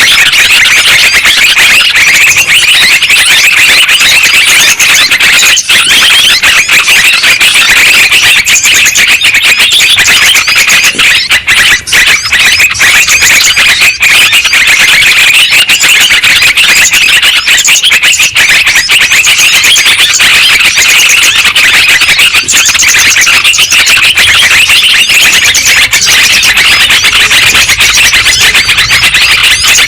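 A very loud, dense and unbroken chorus of yellow-vented bulbuls (trucukan) chattering over one another, played as a bird-lure call recording.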